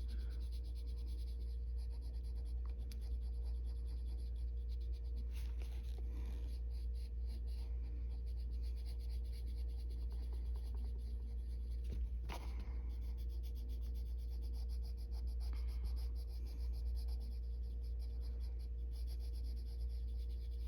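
Arteza coloured pencil scratching across paper in quick, light, repeated strokes as colour is feathered out, over a steady low hum.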